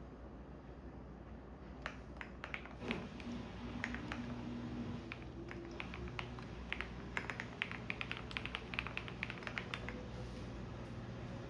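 Computer keyboard typing in irregular runs of keystrokes that start about two seconds in and are densest in the middle, over the low steady hum of a washing machine running.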